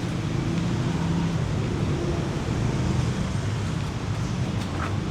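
City street traffic: motor vehicle engines running nearby, a steady low rumble.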